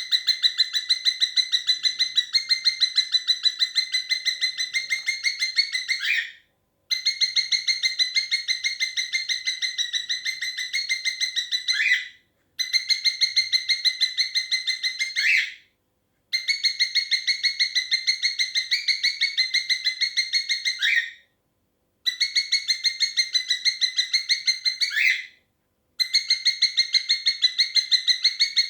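Cockatiel chirping in fast, even trills, in bouts of several seconds that each end with a short rising note, with brief silent gaps between them.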